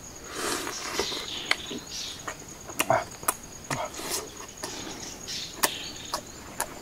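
Close-up chewing and lip-smacking of someone eating spit-roasted chicken: irregular sharp wet clicks and soft smacks, several a second, over a steady high insect hum.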